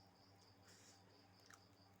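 Near silence: faint room tone with a steady high whine and low hum, and two soft clicks.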